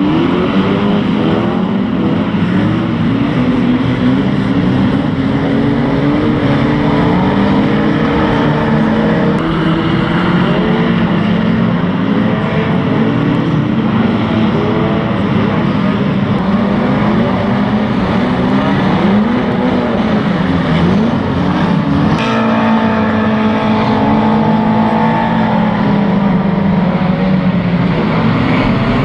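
Several pre-1980 banger race cars racing together, their engines revving and easing off with overlapping pitches that rise and fall.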